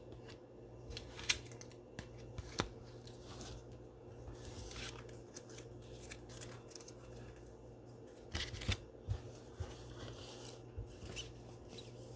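Trading cards in plastic sleeves and rigid top loaders being handled and sorted on a table: faint rustling with scattered light clicks and taps, the sharpest about a second in and a cluster of taps near the end.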